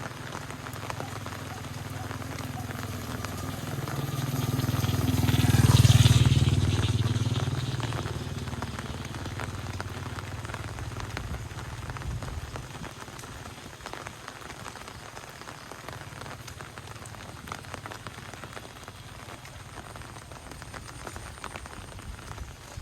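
Steady rain falling, with a motor vehicle passing: its engine grows louder to a peak about six seconds in, then fades away.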